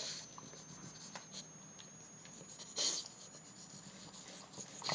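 A dog eating a treat from its bowl: soft scraping and chewing, with two brief louder scrapes, one about three seconds in and one at the end.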